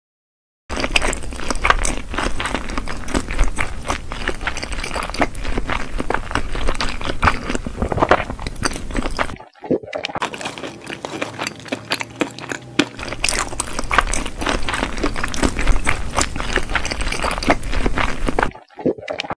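Close-miked mukbang eating sounds: wet chewing and crunching with many small mouth clicks. They come in two long stretches, broken by a short pause about nine and a half seconds in, and stop near the end.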